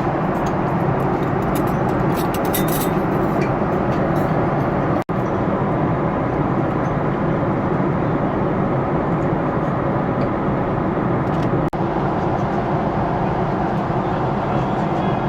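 Steady cabin noise inside a Boeing 777-300ER: the hum and rush of its engines and airflow, broken twice by a split-second gap.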